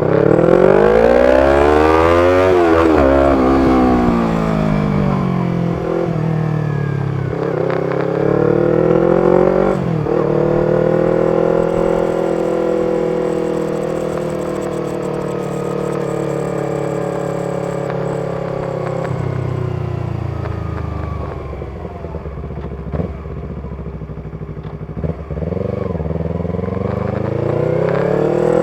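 Yamaha R25's 250 cc parallel-twin engine breathing through a B-Pro aftermarket exhaust while being ridden: the revs climb sharply in the first couple of seconds, drop, climb again, hold at a steady cruise, then fall away and rise once more near the end.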